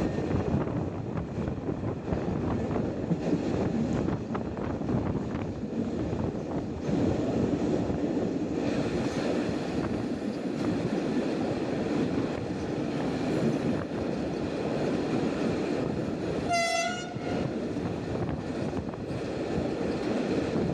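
Diesel-hauled passenger train running on a single track, heard from an open carriage window: a steady rumble of wheels and rushing air with light wheel clatter. Late on, the train's horn sounds one short blast.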